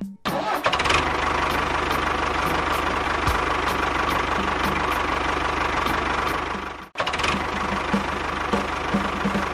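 A small motor or engine running steadily with a fast, even rattle, broken off briefly about seven seconds in and then resuming.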